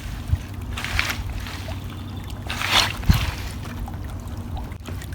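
Trapped floodwater sloshing and gurgling up from under rocks in two short surges, over a steady low rumble, with a couple of short knocks.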